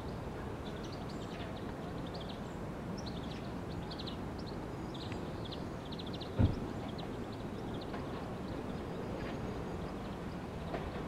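Low, steady rumble of a DART electric train approaching slowly, with small birds chirping over it and a single sharp thump about six seconds in.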